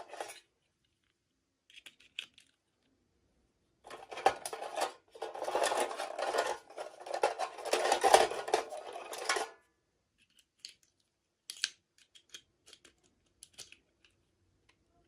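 Toy packaging being handled and opened: two stretches of rustling, the second longer, followed by scattered small clicks and taps.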